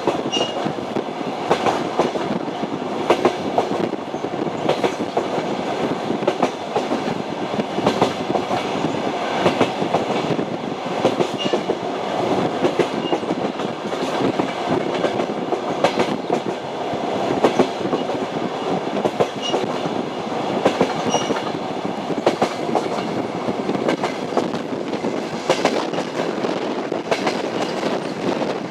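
Passenger train rolling along the track, its wheels clacking over the rail joints in short sharp knocks above a steady rumble.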